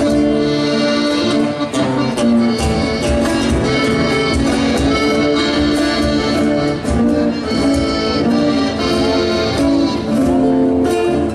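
Instrumental passage of an Argentine folk song, led by an accordion playing a melody over the band's accompaniment.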